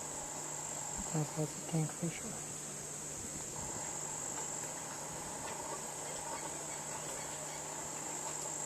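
Steady, high-pitched insect buzz, one continuous shrill note that holds without a break.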